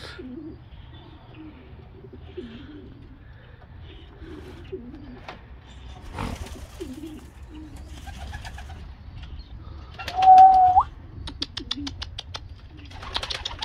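Domestic pigeons cooing in a loft, low and repeated throughout. About ten seconds in there is a louder brief squeak held on one pitch that rises at the end, followed by a quick run of about a dozen sharp clicks.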